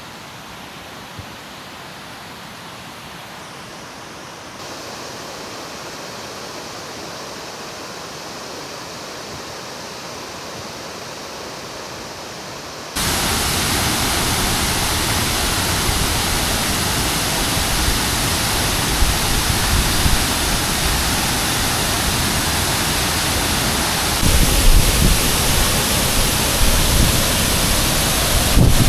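Tinuy-an Falls: the steady rushing roar of a wide waterfall's water, moderate at first, then suddenly much louder a little before halfway. Near the end there is low, uneven buffeting.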